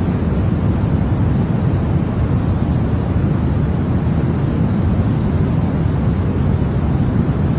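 Continuous white noise for baby sleep: a steady, even rush with most of its weight low and deep, unchanging throughout.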